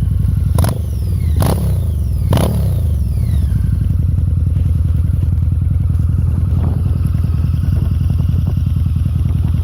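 Harley-Davidson V-Rod Muscle's V-twin through Bassani slip-on mufflers, blipped three times in quick succession in the first few seconds, each rev falling back, then settling into a steady, lumpy idle.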